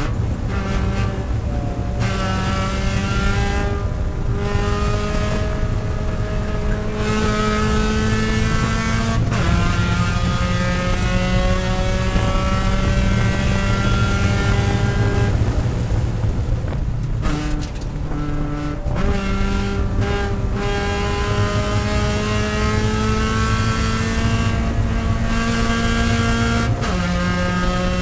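Mazda Miata race car's four-cylinder engine heard from inside the cockpit, pulling hard at full throttle. Its pitch climbs steadily, then drops suddenly at each gear change. Past the middle comes a brief lift off the throttle with quick changes of pitch as it brakes and downshifts for a corner, then it climbs again.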